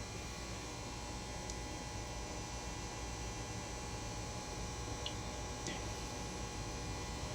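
Steady low electrical hum of room tone, with a few faint small ticks.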